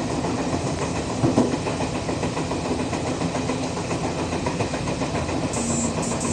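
Electric passenger train running along the track, heard from on board: a steady rumble of wheels on rail, with a single knock about a second in.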